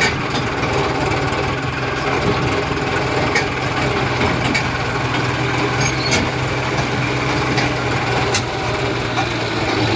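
John Deere tractor's diesel engine running steadily, with a few sharp clicks over it.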